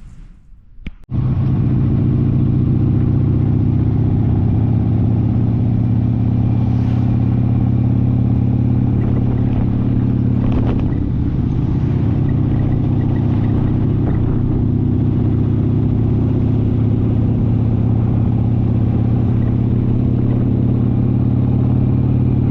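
An engine running steadily at idle: a loud, constant low hum that holds one pitch without revving, starting abruptly about a second in.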